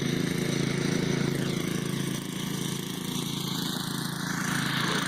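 Snowblower's small engine running steadily with an even hum.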